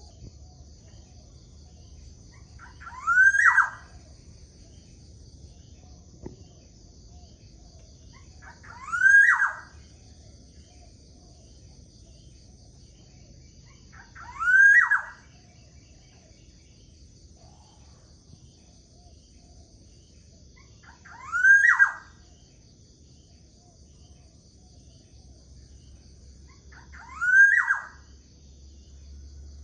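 Black-naped oriole (kepodang) giving one short rising call about every six seconds, five calls in all. A steady high-pitched buzz runs beneath them.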